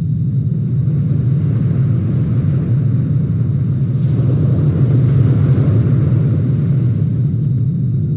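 Steady low rumble of vehicle road noise, swelling slightly about four to five seconds in.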